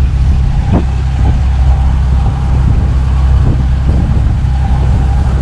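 A tourist boat's engine running steadily under way, a loud, even low drone.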